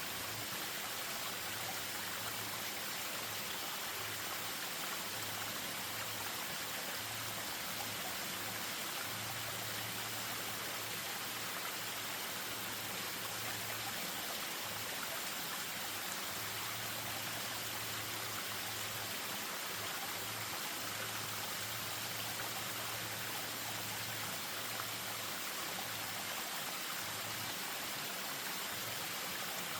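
Spring-fed stream running over a small waterfall: a steady, even rush of flowing water.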